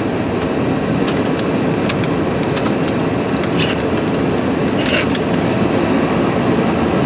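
Steady rushing air noise from the car's climate-control blower running in the cabin, with a few light clicks.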